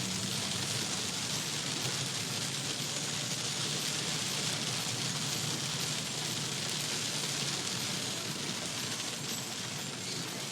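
Torrential rain pouring down in a steady hiss, with a faint low hum underneath.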